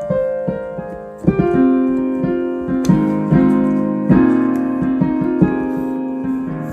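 Solo piano playing an improvised piece: single melody notes struck over chords that are left ringing, with a louder chord coming in about a second in.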